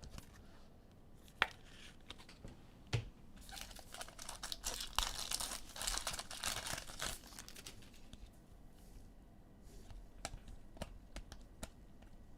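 A trading-card pack wrapper being torn open and crinkled for about four seconds, with a few sharp clicks and light taps from handling the cards before and after.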